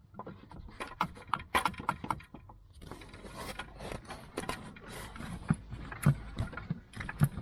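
Irregular metallic knocks, clanks and scraping as a Toyota Celica's lower control arm, its bushings lubricated with soap, is worked and forced into place on the car.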